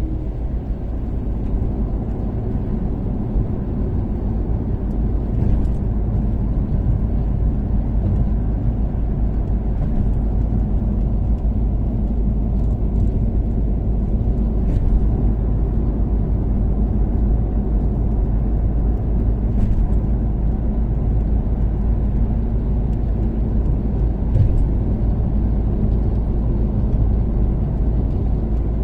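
Toyota Caldina ST246W with its turbocharged 3S-GTE four-cylinder cruising at steady speed on an expressway: a continuous low rumble of engine and road noise. A few faint, brief ticks are scattered through it.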